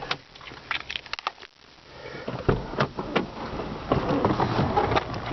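Handling noise in a car interior: a few light clicks, then from about two and a half seconds in a thump followed by knocks and rustling.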